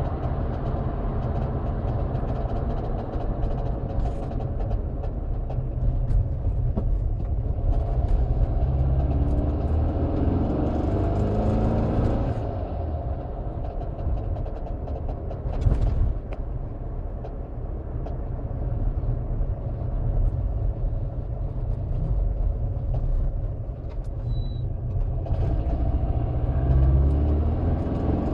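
Air-cooled 2165cc VW Type 1 flat-four on dual Dellorto DRLA 40 carburettors running, its revs rising and falling around ten seconds in and again near the end. It carries a strange noise that started recently and that the owner cannot identify; the valves have been checked and found fine.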